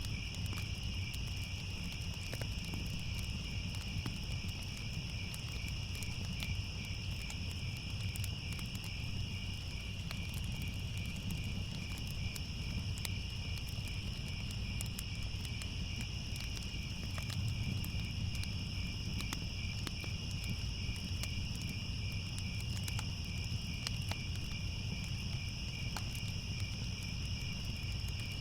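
Steady chorus of crickets chirping, with scattered faint crackles and a low rumble from a fire underneath.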